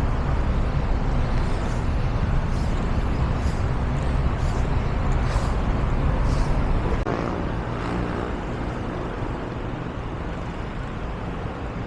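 City street traffic: a heavy low rumble of passing vehicles for about seven seconds, then easing to a quieter road hum.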